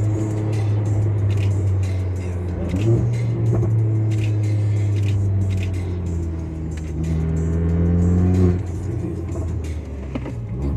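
Car engine and exhaust under way, a steady drone whose pitch climbs from about six and a half seconds in and then drops off sharply about eight and a half seconds in, as the revs fall away.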